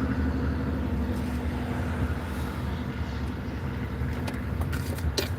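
Steady low engine drone with a constant hum, with a few light clicks near the end.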